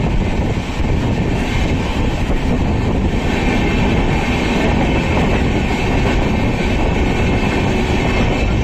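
Passenger coaches of the 12807 Samatha Express running along the track, heard from an open coach door: a steady, loud noise of wheels on the rails.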